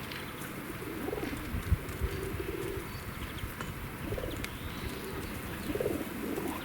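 Feral pigeons cooing: several low, rolling coos in a row, with faint small-bird chirps above them. A single low thump sounds a little under two seconds in.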